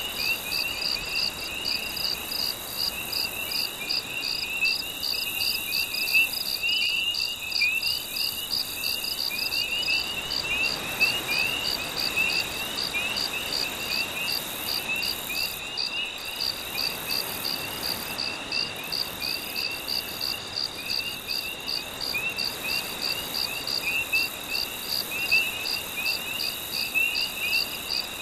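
Night chorus of crickets and frogs. One caller pulses evenly about twice a second over a steady high trill, while rapid short chirps run just below. A faint even wash lies underneath.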